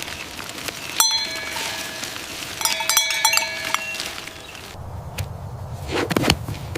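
Metal livestock bells clanking, with ringing tones struck about a second in and again several times around the middle. Near the end the bells stop and a low rumble with a couple of thumps takes over.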